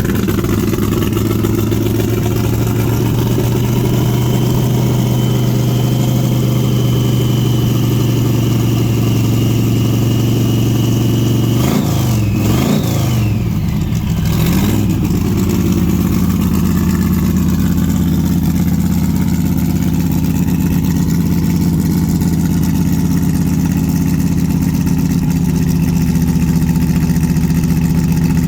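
Supercharged small-block V8 (412 stroker with a 6-71 blower) in a 1967 Chevrolet Nova, idling steadily. About halfway through it gets two or three quick throttle blips, then settles at a faster idle. The engine is running short on fuel.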